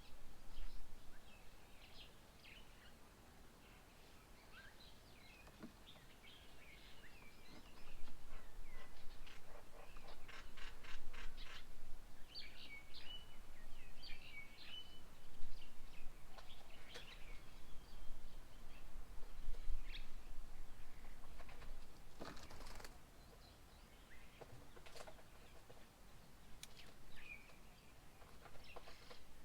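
Birds chirping and calling in short, scattered notes, with a fast rattling series of calls about a third of the way in and a sharp knock about three-quarters of the way through.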